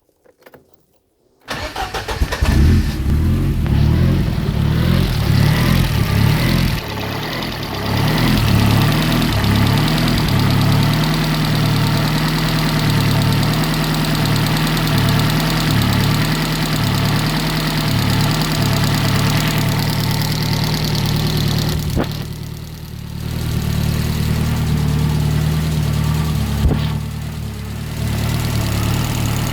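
Dax Rush's Cosworth engine starting about a second and a half in, then running at idle with the revs dipping and picking up a few times. The sound is put up to show its tappet noise from the valvetrain.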